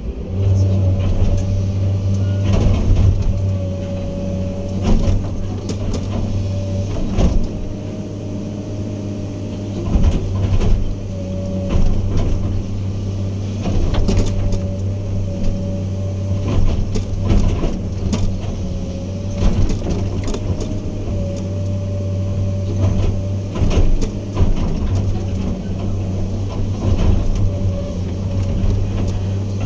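Diesel engine of heavy tracked earthmoving machinery running with a steady low drone, overlaid by frequent irregular metal clanks and knocks.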